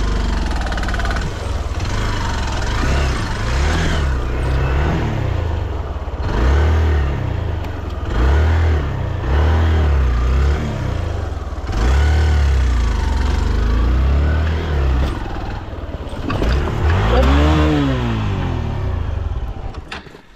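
Adventure motorcycle engine revving in repeated bursts, its pitch rising and falling, with clattering from the bike working over a washed-out, rocky trail. Near the end there is one strong rev up and back down.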